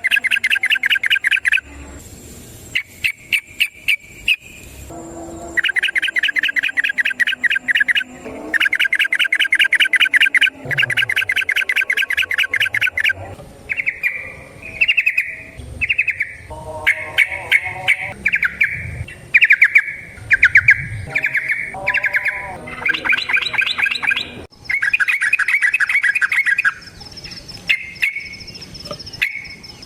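Yellow-vented bulbul (trucukan) singing its rapid rolling "ropel" song: runs of fast repeated chattering notes, each lasting a second or more, broken by shorter separate phrases midway.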